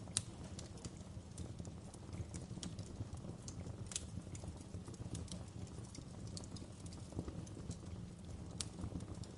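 Wood fire crackling in a fireplace: irregular sharp snaps and pops over a low, steady rumble of the burning. The loudest pop comes just after the start, with others about four seconds in and near the end.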